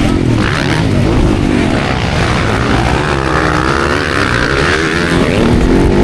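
Motocross bike engines revving hard on a dirt track, the pitch rising and falling as riders work the throttle through the course.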